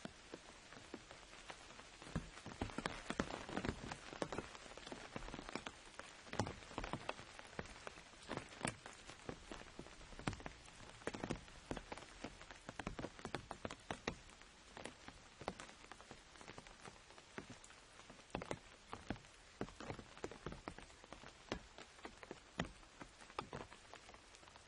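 Rain falling on an umbrella: a steady hiss with many irregular sharp taps of single drops, a little denser about two to five seconds in.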